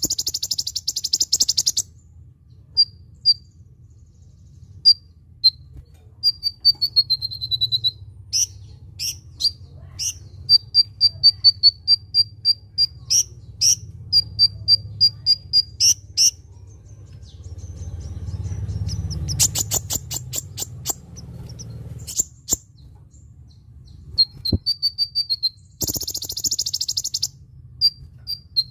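Kolibri ninja sunbird song: runs of sharp, high-pitched chips and ticks, with a short falling trill partway through. Harsh buzzy rattles come at the start and again near the end.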